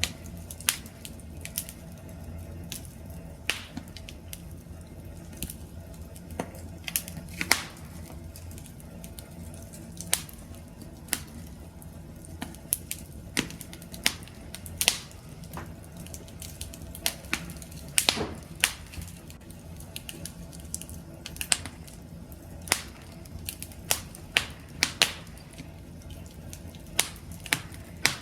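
Wood campfire crackling: irregular sharp pops and snaps, several a second at times, over a steady low rumble of the flames.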